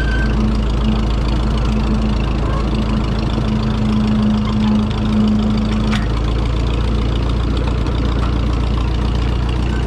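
Old farm tractor engine running steadily, with a held hum over it for about the first six seconds that stops with a faint click.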